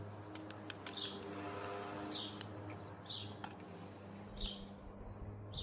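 A small bird outside gives a short, single chirp call over and over, about once every second or so. A steady low hum and a few faint clicks run underneath.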